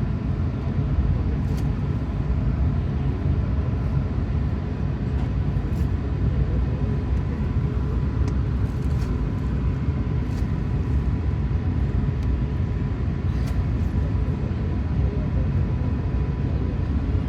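Steady low rumble of an Airbus A380-800 heard from inside the passenger cabin, with a faint steady whine above it.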